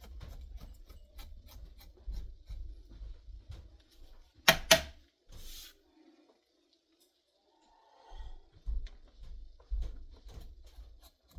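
A leather edge beveler shaving along the edge of a leather strap in quick, repeated short strokes. Two sharp clicks about four seconds in are the loudest sound, followed by a brief pause and then more strokes and light knocks.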